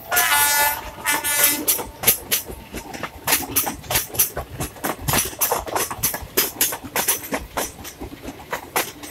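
Passenger train coaches rolling past at speed, their wheels clattering over rail joints in a quick, steady rhythm. A brief high-pitched squeal rings out near the start.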